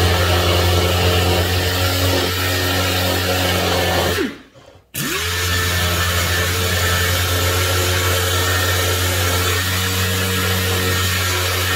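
Pneumatic air sander with 80-grit paper running steadily on welded aluminum, a hum with an air hiss. About four seconds in it stops and winds down, then starts again half a second later and spins back up to speed.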